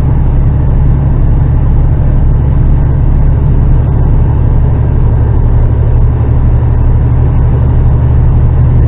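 HGV truck's diesel engine running at a steady low drone, heard inside the cab.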